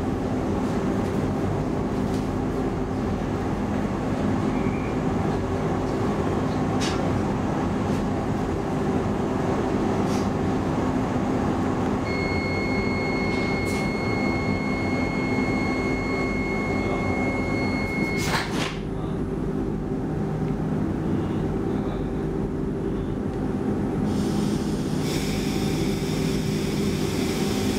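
Cabin of an X10 electric commuter train standing at a platform: its onboard equipment hums steadily on a few low fixed tones. About halfway through, a high electronic beep sounds for about six seconds and ends at a sharp knock.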